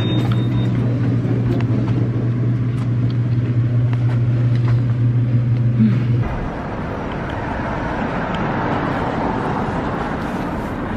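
Car driving, engine and road noise: a steady low drone and rumble that changes abruptly about six seconds in to a smoother, hissier road rumble.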